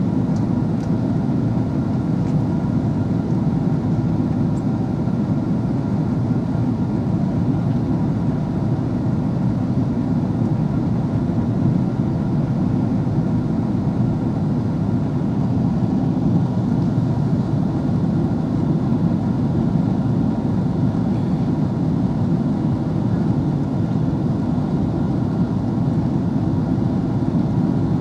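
Steady low rumble inside the cabin of an Airbus A330-300 airliner: engine and airflow noise, even throughout with a faint steady hum above it.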